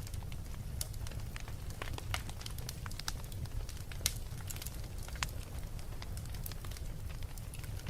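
Wood fire in a fireplace crackling, with irregular sharp pops over a steady low rumble of the flames; the loudest pops come about four and five seconds in.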